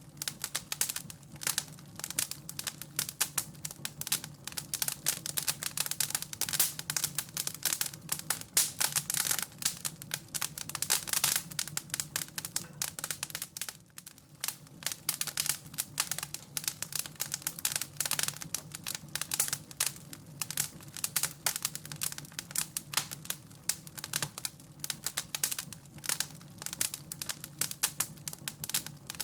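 Wood fire crackling: a dense, irregular run of small pops and snaps over a low steady hum, with a brief lull about fourteen seconds in.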